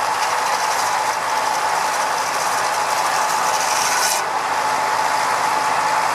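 Machinery running steadily, with a constant high-pitched hum; a hiss in the mix stops suddenly about four seconds in.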